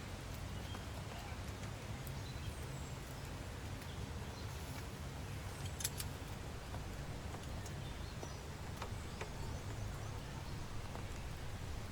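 Steady rain with scattered drips tapping, one sharper tap about six seconds in.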